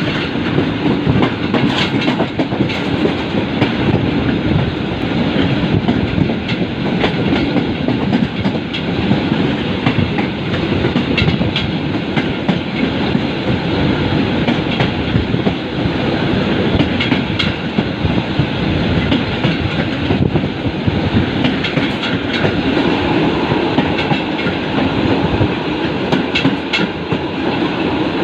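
A train running along the track: a loud, steady rumble with the clickety-clack of wheels over rail joints and a sharp click now and then.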